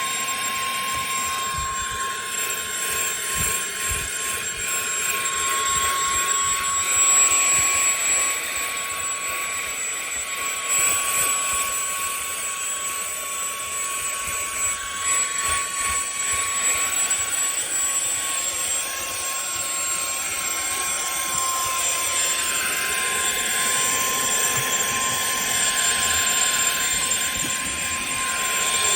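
Cordless handheld vacuum cleaner with a brushless motor running without a break: a steady high whine over rushing air, the air noise rising and falling through the run.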